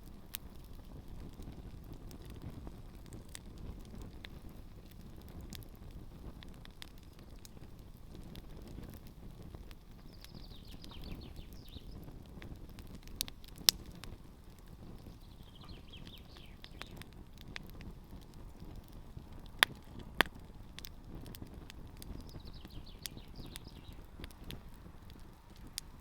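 Campfire with shoes burning in it, crackling steadily over a low rumble, with scattered sharp pops; three loud pops come a little past the middle. A bird sings three short high phrases in the background.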